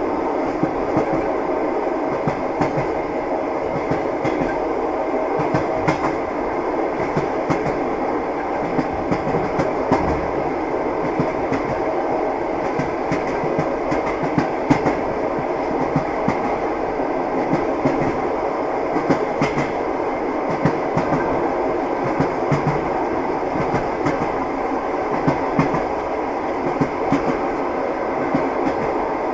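Train wheels clacking over rail joints, with the steady rumble of a moving railway carriage. Short sharp clicks come irregularly over the even running noise.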